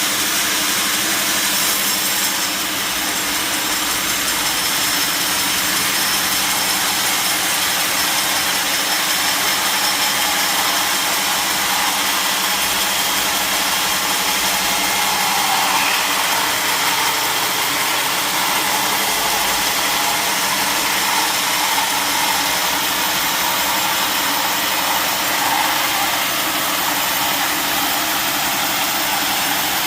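Sawmill saw machinery running steadily with a constant hum and a loud hiss. A brighter whine joins it from about halfway through.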